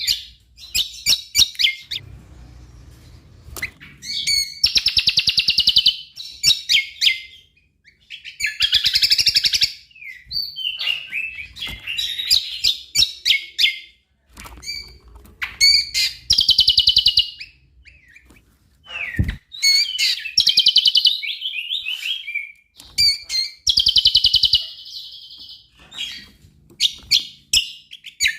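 Cucak kombo, a green leafbird, singing loud and full: rapid, chattering song phrases packed with mimicked notes, each lasting a second or two and coming every few seconds, with single sharp chirps in between.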